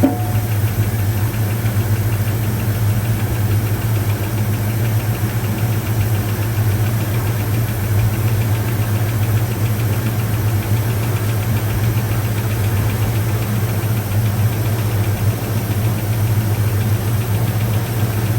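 Old Ford Thunderbird's engine idling steadily just after being started.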